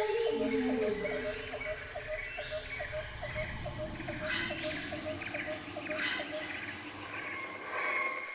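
Tropical jungle ambience: a short chirp repeated evenly, nearly four times a second, stopping near the end, over a bed of insect noise with scattered bird calls.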